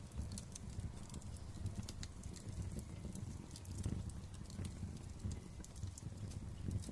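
Wood fire crackling in a fireplace: many small sharp pops scattered unevenly over a steady low rumble of the flames.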